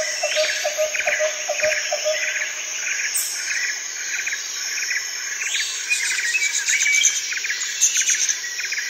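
Insects trilling and birds chirping: a steady chirp repeating about twice a second over a high hiss. A faster, lower pulsed call fades out about a second and a half in.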